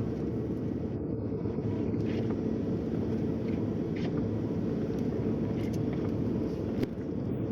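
Heavy truck driving, heard from inside the cab: a steady low drone of engine and road noise with a faint engine hum.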